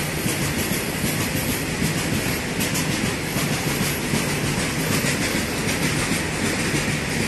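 Indian Railways freight train's wagons running past at speed, a steady, unbroken rumble with the clatter of wheels on the rails.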